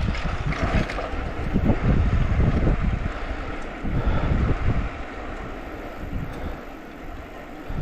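Wind buffeting a shirt-mounted microphone as a bicycle rolls downhill on a rough trail, with irregular thumps and rattles from the bumps. The noise dies down after about halfway.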